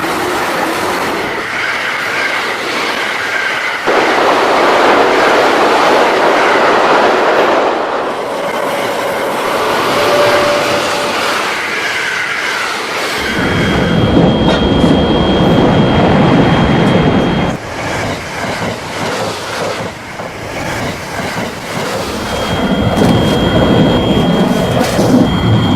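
Train running on rails, wheels clattering over the rail joints with some wheel squeal. The sound changes abruptly about four, thirteen, seventeen and twenty-two seconds in, and a thin high whine runs through some passages.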